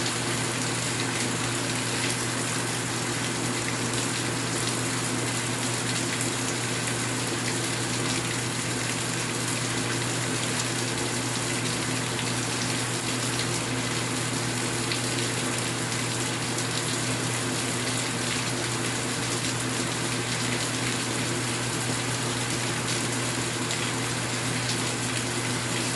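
Rain falling steadily: an even, unbroken hiss of water with no let-up.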